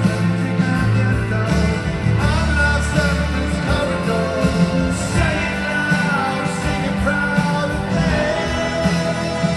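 Live rock band playing a ballad with a sung melody over it, recorded from the audience on a phone.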